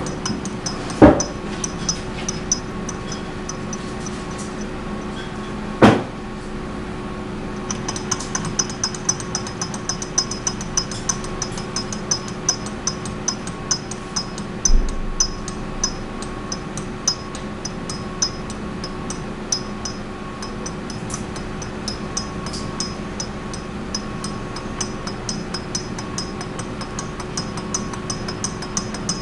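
Small home-made thermoacoustic engine: two sharp knocks in the first six seconds, then from about eight seconds in a fast, even ticking as it runs. A steady hum lies under it all.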